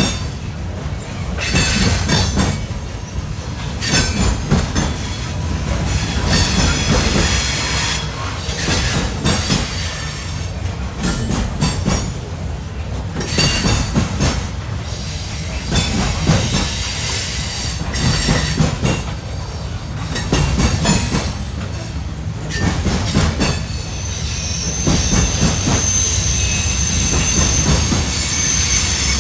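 Freight train cars rolling past, their wheels clacking over the rail joints in a repeating rhythm, with high wheel squeal at times, longest and steadiest near the end.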